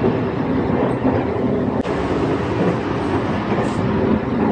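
Steady running noise of the Sunrise Express sleeper train in motion, heard from inside a carriage corridor: a continuous low, loud rumble.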